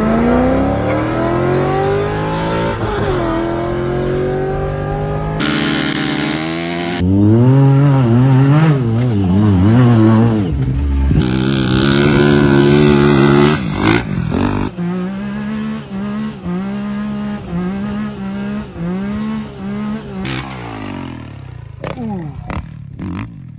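Truck engine running and revving, its pitch rising at first and then swinging up and down, in several short segments with abrupt cuts between them.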